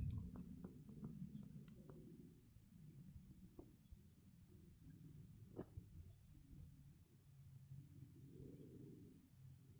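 Near silence: faint outdoor background with a low rumble, scattered small clicks and a few faint high chirps.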